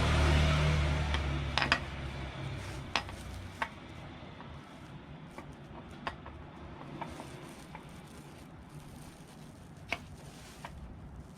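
A vehicle's engine hum fades out over the first few seconds. After it come scattered sharp metallic clinks of hand tools and engine parts being handled, the loudest about 10 seconds in.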